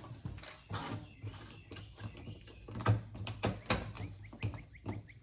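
Quick, irregular clicks, taps and knocks of metal and plastic electronic parts being handled and pried apart during scrapping, over a low steady hum.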